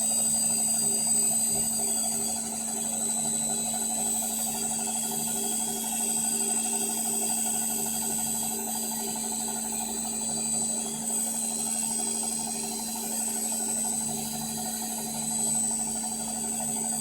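Indesit My Time washing machine in its final spin, its motor and drum running at a steady speed with a constant whine and a faint regular pulse from the turning drum.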